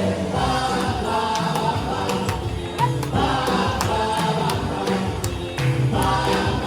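Live Latin band playing a song, with sustained melody notes over a steady percussion rhythm.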